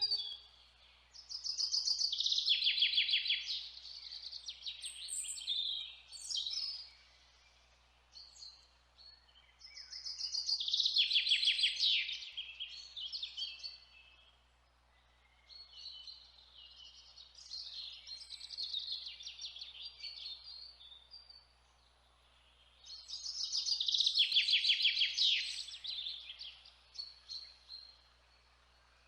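Songbird singing in four long, high-pitched, rapid chirping phrases separated by quieter pauses.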